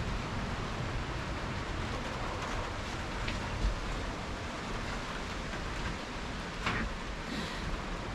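Windstorm noise heard from inside a shed: steady wind and blowing rain, with wind rumbling on the microphone and a couple of faint taps.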